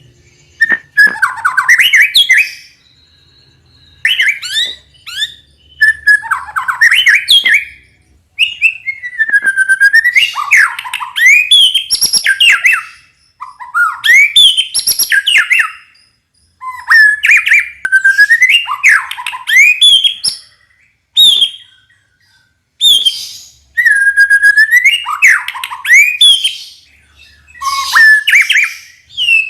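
White-rumped shama (murai batu) calling in loud bursts of sweeping whistles mixed with fast, rattling 'kretekan' notes. The phrases repeat about every two to three seconds with short pauses between them.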